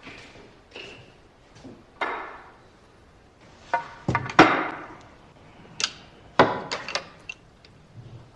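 Billiard cue and balls striking: a series of sharp clacks at uneven intervals, several close together in the middle.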